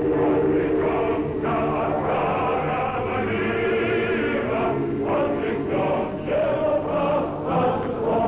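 A choir singing a slow, sustained passage with vibrato, on an old archival recording.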